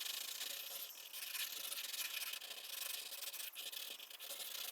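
Crayon scratching rapidly across paper in short repeated strokes, drawing grass.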